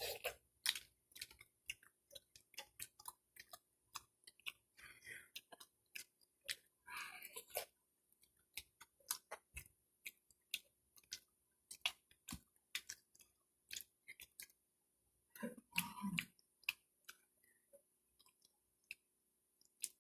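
Close-miked mouth sounds of eating soft food: quiet, irregular chewing with lip smacks and small clicks, plus one short louder sound about three-quarters of the way through.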